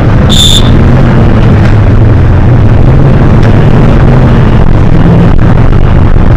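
Hino HS8JRVL city bus under way, its engine droning steadily under heavy road rumble, recorded very loud and overdriven. A short high electronic beep sounds just after the start.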